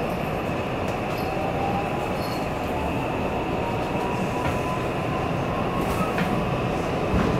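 JR West 323 series electric commuter train running, heard from inside the car: a steady rumble of wheels on the track, with a faint whine that rises in pitch over the first few seconds and then holds steady.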